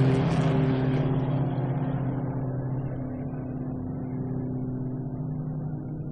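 Racing car engines: a car that has just passed close is still dropping a little in pitch, then the engine sound fades steadily as it draws away.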